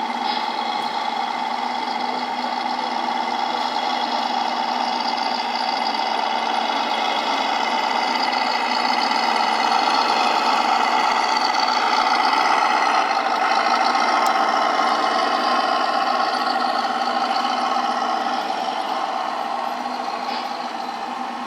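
Radio-controlled scale model vehicle running: a steady, many-toned motor whine that grows louder toward the middle and fades again near the end.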